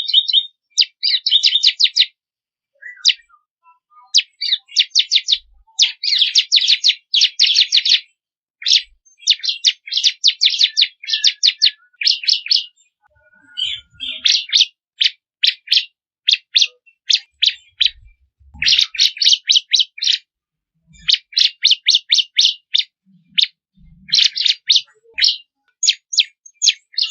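Ciblek kristal (a prinia) singing: bursts of rapid, sharp, high chirps, about ten notes a second, in phrases a second or two long with brief pauses. This is song used as a masteran, a tutor recording for teaching caged birds to sing.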